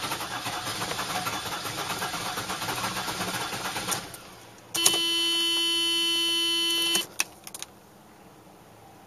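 1987 Mercedes 300D's six-cylinder turbodiesel running rough just after a hard cold start, then dropping away suddenly about four seconds in. A loud, steady tone then sounds for about two seconds, followed by a few clicks.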